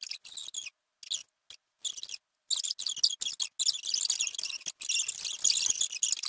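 Songbird singing high, thin phrases, in short separate bursts at first and then almost without a break from about two and a half seconds in.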